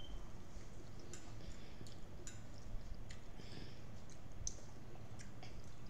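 Eating sounds: soft chewing and lip-smacking, heard as a dozen or so brief faint clicks at irregular intervals.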